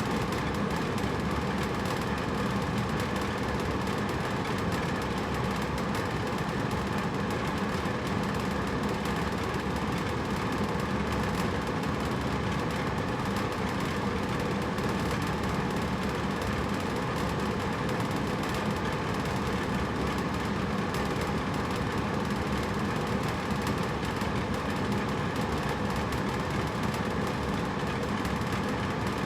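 Hotel room air conditioner running steadily, a constant fan-and-compressor hum with a faint low drone under a wide hiss.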